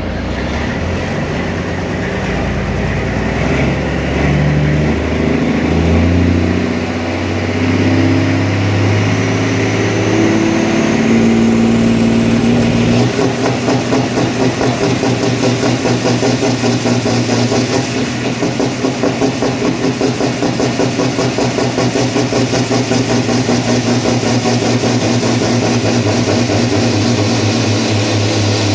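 Volvo diesel engine of a truck-pulling tractor running on a dynamometer, with a high whine that rises steadily in pitch through the first two-thirds. From about halfway in, the sound pulses rapidly and evenly.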